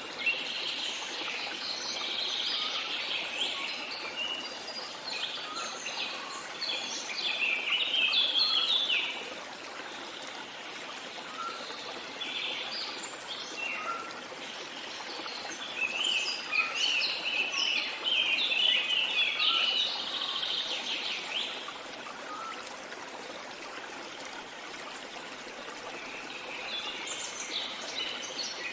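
Several songbirds singing in a dense chorus of quick chirps and trills that come in busy stretches: at the start, again from about the middle, and near the end. Underneath runs a soft, steady hiss of flowing water.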